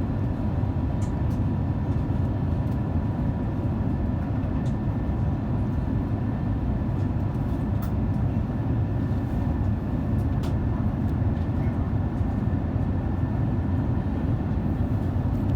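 Steady cabin noise inside an Airbus A350 in flight: a low, even rumble of airflow and its Rolls-Royce Trent XWB engines, with a faint steady whine over it.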